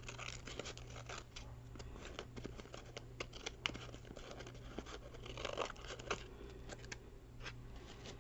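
Scissors snipping paper in a quiet string of short cuts, trimming excess paper off the edge of a page.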